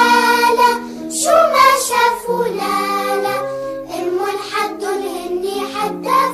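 Arabic children's song: a child's singing voice over a synthesized backing with a steady bass line.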